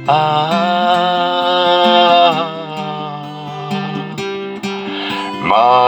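A male voice holds a long sung note for about two seconds over acoustic guitar accompaniment, then the guitar plays on alone; just before the end the voice comes in again with a new phrase.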